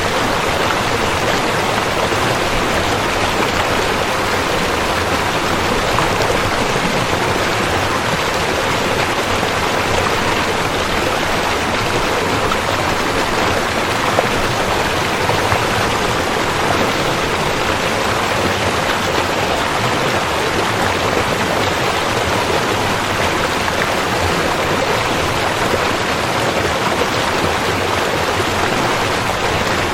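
River water flowing, a steady, even rush of water with no breaks or changes.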